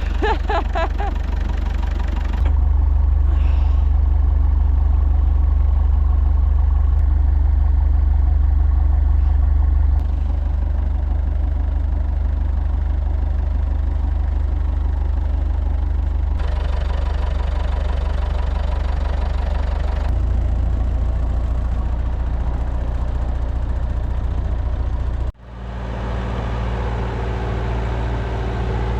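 An engine running steadily at idle, a low drone heard in several short cut-together stretches that change abruptly, with a brief dropout near the end.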